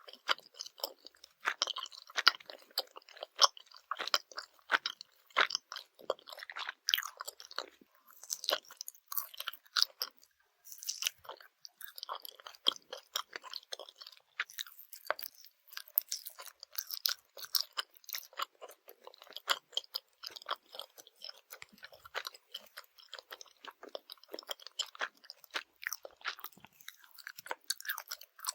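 Close-miked chewing of Swedish jelly candies: rapid, irregular squishy, chewy mouth sounds with small crunches.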